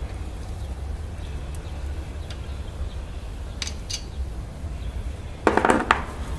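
Metal tools and brake parts being handled during brake caliper removal, with a few faint clicks and then a short burst of clinking and clattering near the end. A steady low rumble runs underneath.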